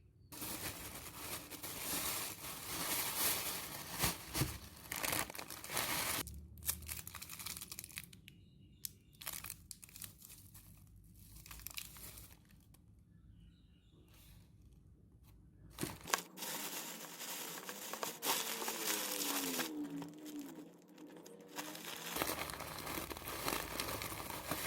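Rustling and crinkling, as of something being handled, heard in several short stretches that cut in and out abruptly.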